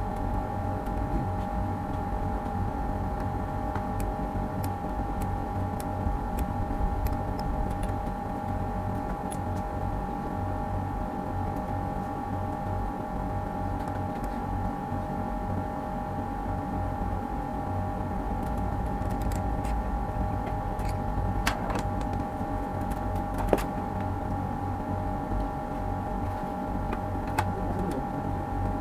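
A small electric motor running steadily with a constant whine and low hum, with a few sharp clicks and taps in the second half.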